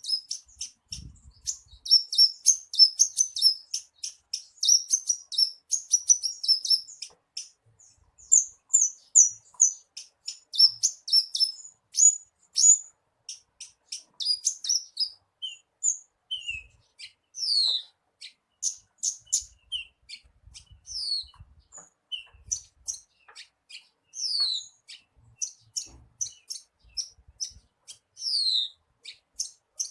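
Horsfield's bush lark (branjangan) singing a long, unbroken song of rapid high chirps and trills, dense at first, later broken into separate notes and falling whistled slurs.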